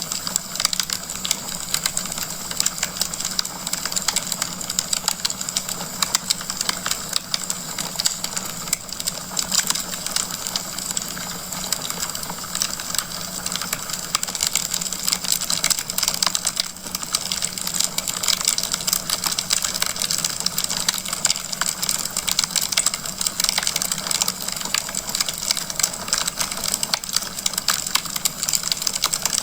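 Wood fire burning in a fireplace and crackling: a dense stream of small pops and snaps over a steady hiss.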